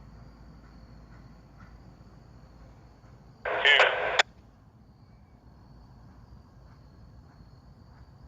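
A scanner radio picks up a short two-way radio transmission from the train crew, about a second long, starting about three and a half seconds in and cutting off with a squelch click. Around it, a faint steady high-pitched tone and a low rumble.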